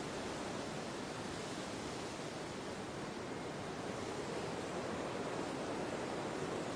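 Steady wind: an even, unbroken rushing noise.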